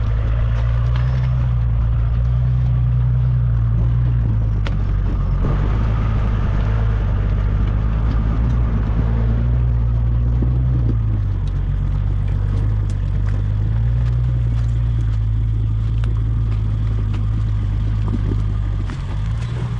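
Nissan Patrol 4WD engine running at low revs under load as it crawls up a steep rocky climb, the revs easing up and down a little. A few sharp clicks and knocks from rocks under the tyres.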